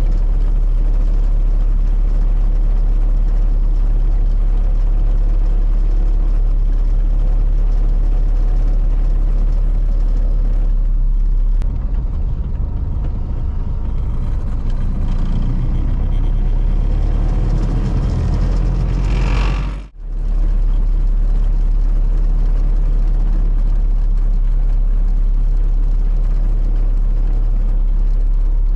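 1932 Ford Model B's four-cylinder engine running as the car drives along, with steady road and wind noise. The sound changes character about twelve seconds in and drops out for a moment about twenty seconds in.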